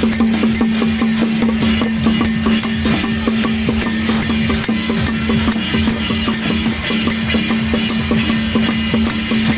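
Drum-led percussion music with a steady, even beat of about three strikes a second over one long held note.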